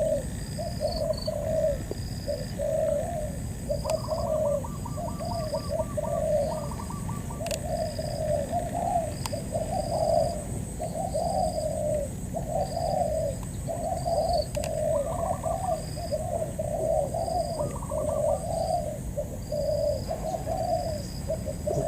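Spotted doves cooing in a steady run of short coos, about one a second, with a few quicker pulsed notes mixed in.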